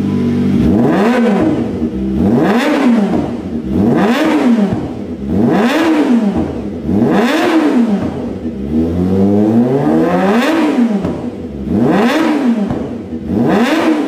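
Kawasaki Ninja ZX250R engine revved through an aftermarket exhaust, the throttle blipped over and over, about every second and a half, each rev rising and falling in pitch.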